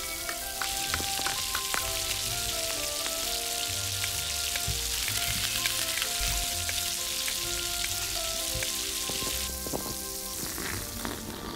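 Hot oil sizzling as food fries in a miniature pan, starting about half a second in and dying away near the end, with a few light clicks. Gentle background music with a plucked melody plays throughout.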